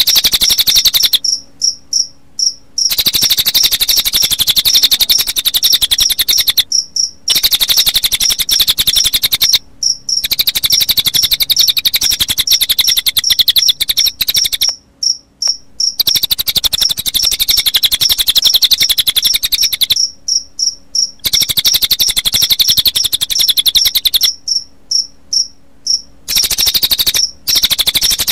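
Cililin bird song layered with cricket chirping as a bird-training sound track: a loud, very fast high trill in long bouts, broken by short pauses several times.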